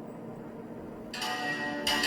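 Quiet room tone, then about a second in an instrumental trot backing track starts with bright, sustained chiming tones, getting louder near the end.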